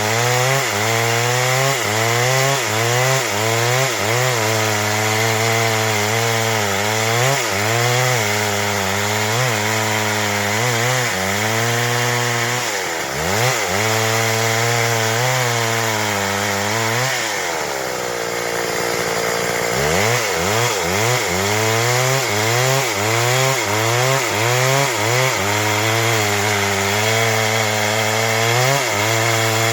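Stihl MS 382 two-stroke chainsaw cutting through wood under load, its engine speed sagging and recovering over and over. About two-thirds of the way through it drops to a lower speed for a couple of seconds, then revs back up and cuts on.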